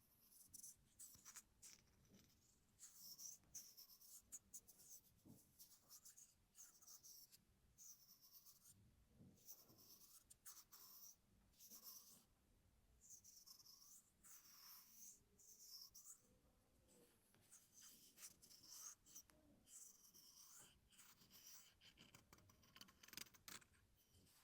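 Hairbrush bristles drawn through hair in repeated short, soft hissing strokes, about one a second.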